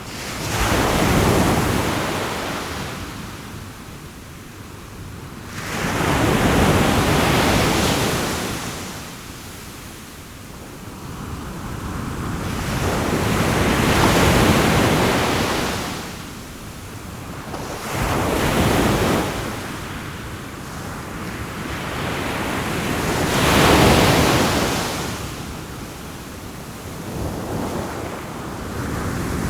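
Sea waves breaking and washing up on the shore, each surge swelling and fading away every five or six seconds.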